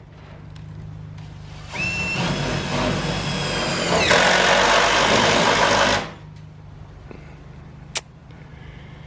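Handheld electric power tool spinning up with a rising whine about two seconds in. It runs, grows louder about four seconds in, then cuts off suddenly about six seconds in.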